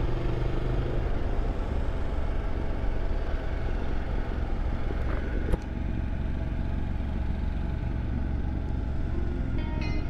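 Ducati motorcycle engine running steadily while riding, heard from on the bike, with a single sharp click about five and a half seconds in.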